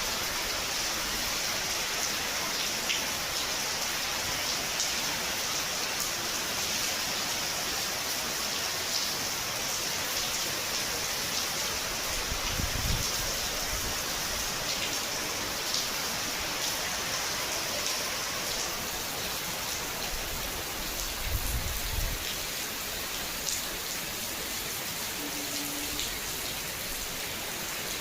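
Steady, heavy rain falling, with scattered drop ticks throughout and two brief low rumbles, about halfway and about three-quarters of the way through.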